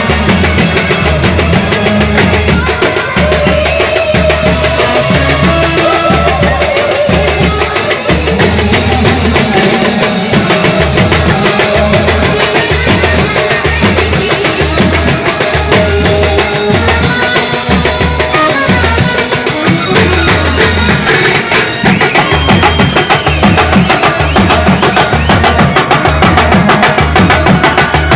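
Banjo party band playing a Hindi film tune: an Indian banjo carrying the melody over a driving drum beat.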